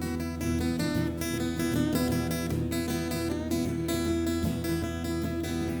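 Live folk music with no singing: an acoustic guitar strummed in a steady rhythm over a sustained bass.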